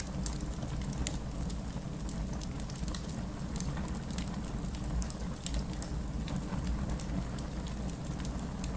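Wood fire crackling: frequent sharp pops and snaps, a few each second, over a steady low rumble of the flames, with one louder snap a little before the middle.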